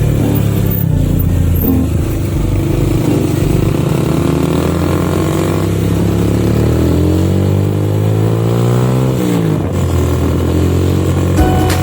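Motorcycle engine running under way. Its pitch climbs steadily for a few seconds as it accelerates, then drops sharply near the end, as at a gear change.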